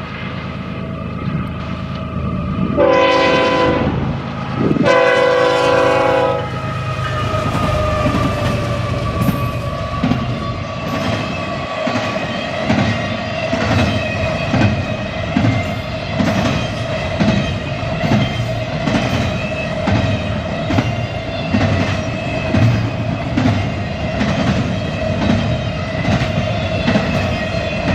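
Freight locomotive horn sounding two long blasts a few seconds in, then the container train rolling past with a steady rhythmic clatter of wheels over rail joints and a steady high tone above it.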